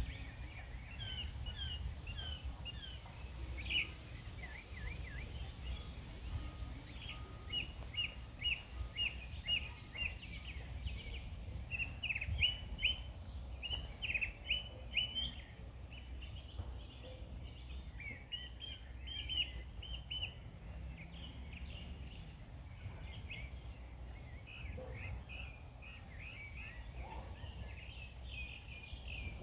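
Several small birds singing and chirping, with quick series of short high notes repeated throughout, over a steady low rumble.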